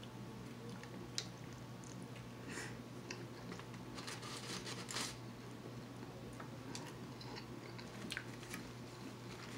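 Faint chewing of a bite of cheeseburger: soft, scattered mouth clicks and smacks over a low, steady hum.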